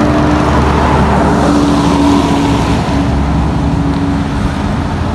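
An engine running steadily close by, holding a constant pitch, over a low rumble and a hiss of noise.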